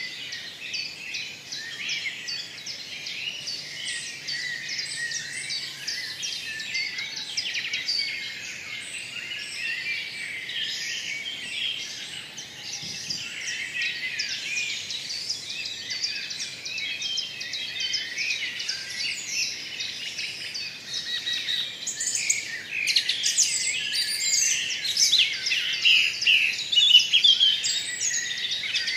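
Birds chirping: a dense, continuous chorus of many overlapping short chirps and calls, growing louder near the end.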